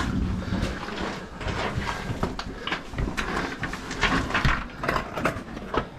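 A caver crawling through a tight rock squeeze: clothing and gear scraping and rubbing against the rock in irregular strokes, with scattered knocks.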